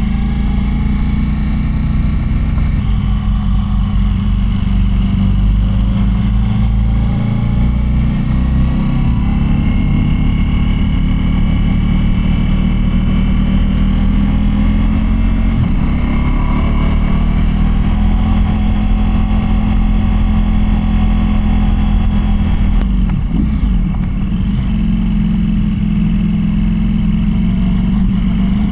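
Motorcycle engine running under way, its pitch rising and falling slowly with the throttle, with a brief drop about 23 seconds in.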